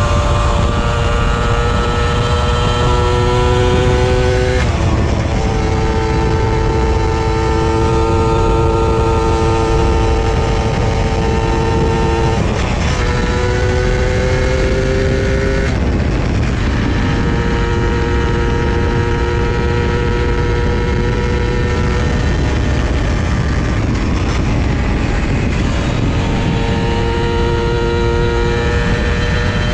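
Honda Dash 125's single-cylinder two-stroke engine running under way at a fairly steady pitch. Its note breaks off and comes back about four times as the rider changes gear or backs off the throttle. A heavy low wind rumble runs underneath.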